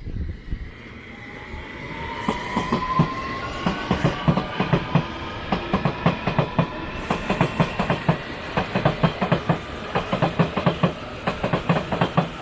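Electric train pulling away: its traction motors give a whine that slowly rises in pitch, and the wheels click over the rail joints, the clicks getting faster and louder as it gathers speed.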